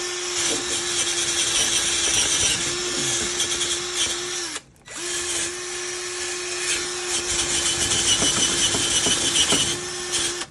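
Power drill spinning a wire brush against a corroded outboard engine anode: a steady motor whine under the scratchy hiss of steel bristles on metal. The drill's pitch sags briefly under load a few times, and it stops for a moment about halfway through before starting again.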